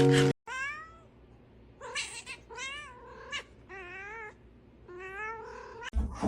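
A cat meowing about six times in short calls, with one longer, wavering meow about four seconds in.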